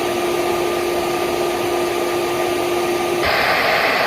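A vacuum motor running steadily with a low hum. A little over three seconds in, the hum drops out and the sound shifts to a higher, airier hiss.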